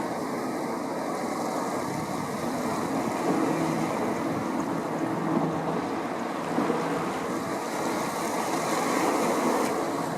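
A boat's engine running steadily, mixed with the wash of waves and wind on the microphone.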